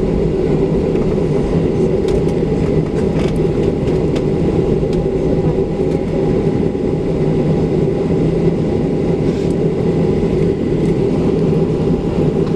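Steady cabin drone of a Boeing 737-700 taxiing, its two CFM56-7B engines running at idle, with a constant low hum heard from inside the cabin.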